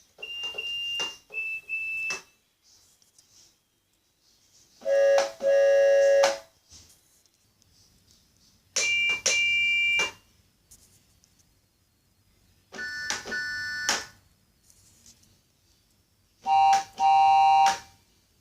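A series of five different train whistles, each sounding a short blast and then a longer one, with a different chord and pitch each time and pauses of a couple of seconds between them.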